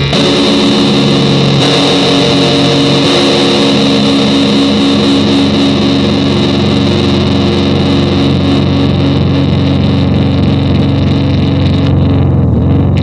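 Curtis electric fan running loudly: a steady motor hum of several tones over a rush of moving air, the tones shifting slightly about a second and a half in.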